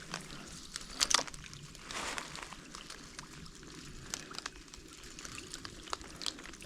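Rain pattering, with many irregular close drop ticks and a brief louder rustle about a second in.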